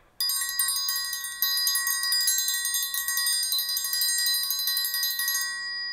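Bells ringing: a rapid, dense metallic jingling with several high ringing tones through it. It stops about five and a half seconds in, leaving a few tones fading.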